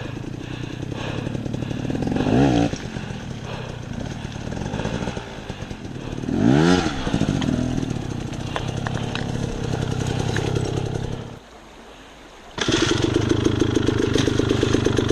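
Dirt bike engine running, revved up and back down twice. It drops away abruptly for about a second past the middle, then comes back running steadily and louder.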